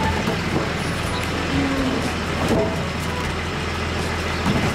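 Rear-loader garbage truck's engine running while stopped, a steady low drone under even street noise.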